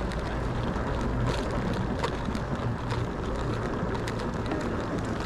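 Steady rumbling ride noise from an e-bike rolling along, with wind on the action-camera microphone and scattered small ticks and rattles.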